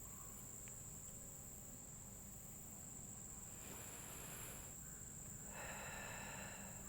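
Crickets trilling steadily and faintly, as one unbroken high-pitched tone. About four seconds in there is a brief rush of noise, and near the end a short animal call with several stacked tones.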